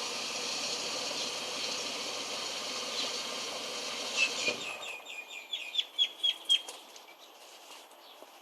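The AU XR6's inline six-cylinder engine idles low after a rev, then falls quiet about four and a half seconds in. A run of short, high chirps follows, around eight in two seconds.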